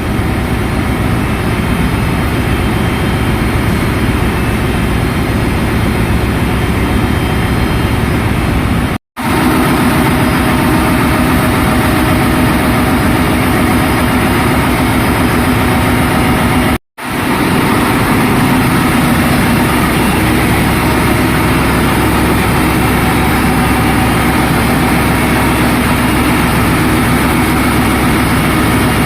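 Ship's engine-room machinery, its diesel engines running with a loud, steady drone and hum. The sound cuts out abruptly twice, for a fraction of a second, about 9 and 17 seconds in.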